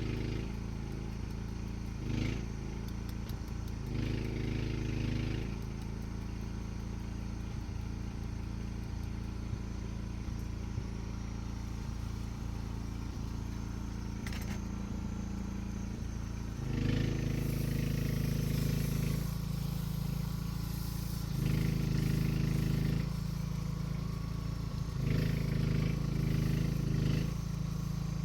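An engine running steadily, with a low even hum. It gets louder in several stretches of a second or two, mostly in the second half.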